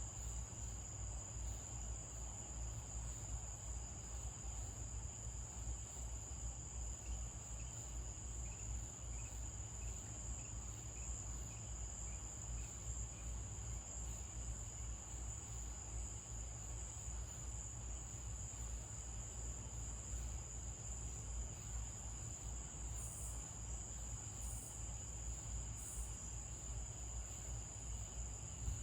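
Crickets trilling in a continuous high chorus, with a faint run of short repeated chirps partway through and a steady low hum underneath.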